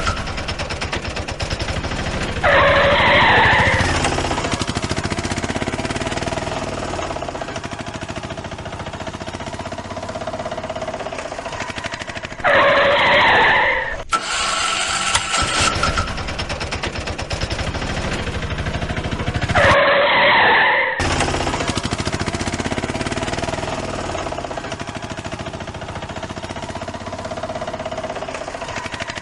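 Cartoon vehicle sound effects: a steady engine running, broken three times by a loud tire screech lasting a second or so.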